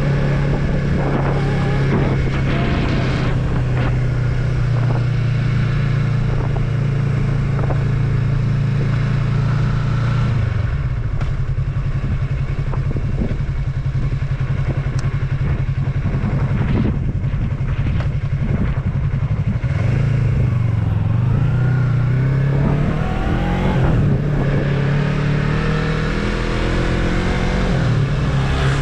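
Yamaha MT-03's 321 cc parallel-twin engine running under way, heard from on the bike. It holds a steady note for about ten seconds, then the revs change, drop off around twenty seconds in, and rise as it accelerates near the end.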